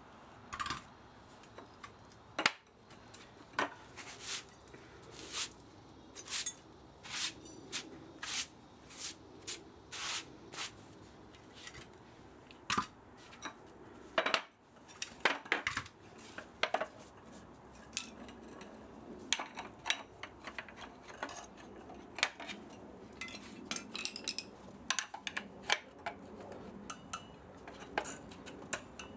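Metal clinks and sharp clicks from hand tools working on the parts of an old spa motor being dismantled for scrap, coming irregularly, often about one a second, some with a short metallic ring and a few close-together clusters.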